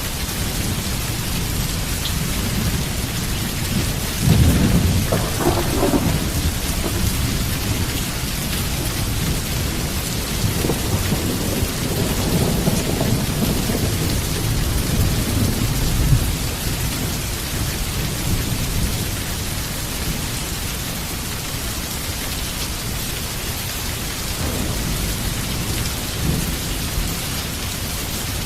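Heavy rain falling steadily with a constant hiss, while thunder rumbles low several times: a surge about four seconds in, longer rolls in the middle, and another building near the end.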